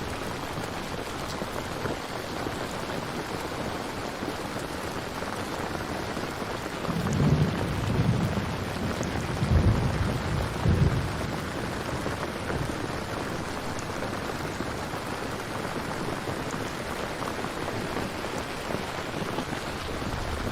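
Steady rain falling, with a roll of thunder rumbling in several low bursts about a third of the way in.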